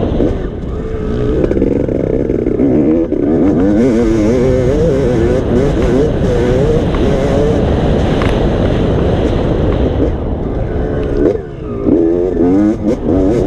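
Motocross dirt bike engine running hard, its pitch rising and falling again and again as the throttle is worked, over a heavy low rumble. The engine drops away briefly about eleven seconds in, then picks up again.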